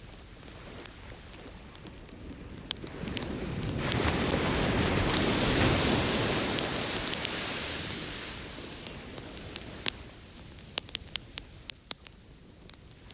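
Beach bonfire crackling with scattered sharp pops, over an ocean wave that swells up a few seconds in and washes back out. The pops stand out more clearly as the surf fades near the end.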